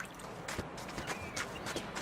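Faint water dripping and trickling, with scattered small clicks.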